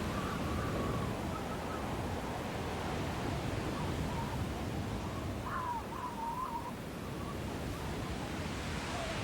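Snowstorm wind: a steady rushing noise with a thin whistling howl that wavers up and down in pitch, swelling briefly a little past halfway.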